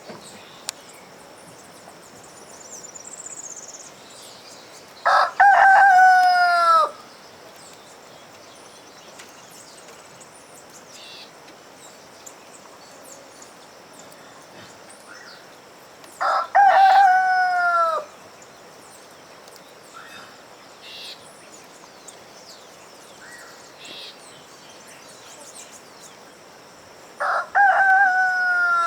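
Rooster crowing three times, about eleven seconds apart. Each crow is a short opening note and then a long drawn-out call whose pitch falls at the end. Faint bird chirps and a steady high-pitched whine lie beneath.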